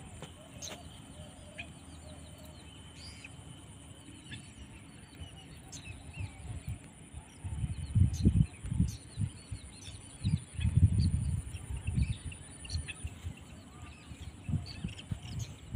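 Small birds chirping over a steady high thin whine, with a low rumbling noise that comes and goes through the second half and is the loudest sound.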